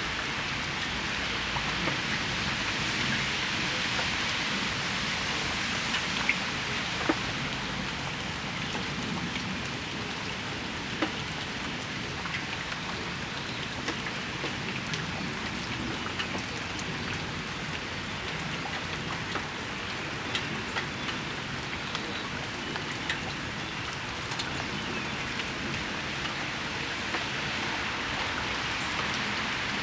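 Steady rain shower falling on hard surfaces, with scattered louder drops ticking close by.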